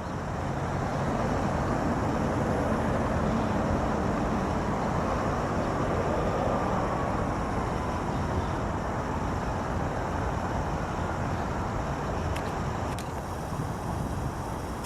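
A mini truck's small engine running steadily, easing down somewhat in the second half, with two faint ticks near the end.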